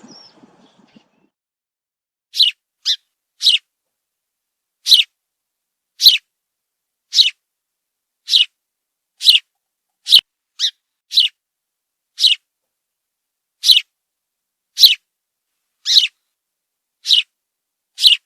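A bird giving short, sharp, high-pitched calls, repeated about once a second, starting a couple of seconds in.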